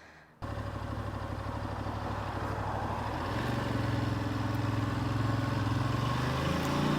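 Ducati DesertX's V-twin engine running under way. It starts abruptly about half a second in, and its pitch steps up a little about three seconds in, then holds steady.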